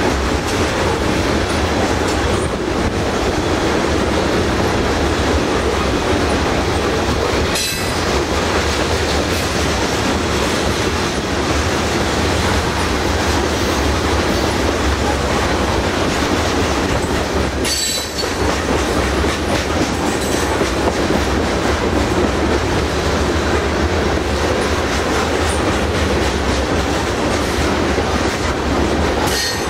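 Freight train's covered hopper cars rolling past close by, their steel wheels on the rails making a loud, steady rumble, with brief dips in the noise about 8 and 18 seconds in.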